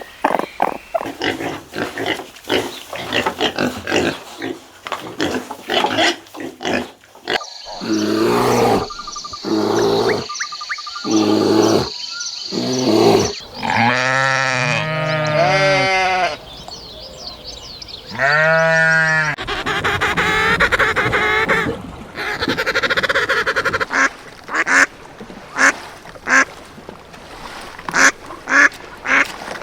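Calls of several different farm animals, one after another: runs of short quick sounds, then a few longer pitched calls, with more short sharp sounds near the end.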